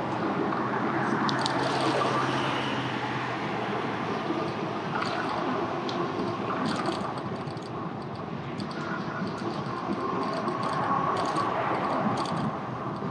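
Steady road and wind noise from riding an e-bike along a street, with many small rattling clicks scattered throughout.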